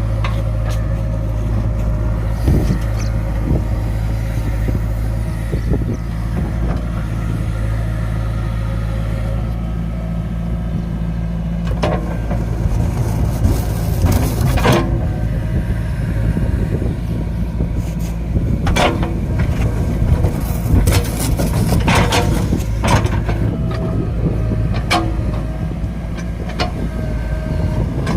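JCB 3DX backhoe loader's diesel engine running steadily under work, with a string of sharp knocks in the second half as the backhoe works in the dump truck bed.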